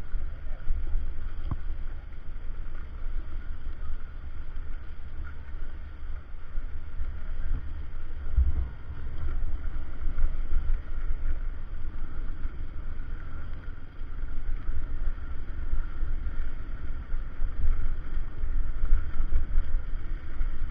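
Wind buffeting the microphone of a moving motorcycle, a heavy uneven rumble that swells and dips, with faint steady road noise underneath.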